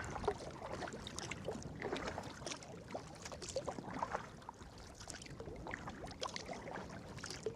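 Sea kayak being paddled: irregular splashes of paddle blades dipping into the water, with small water noises around the boat.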